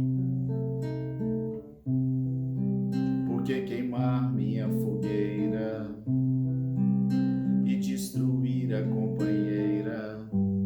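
Acoustic guitar playing a plucked chord accompaniment, with a singing voice coming in over it about three seconds in and again in the second half.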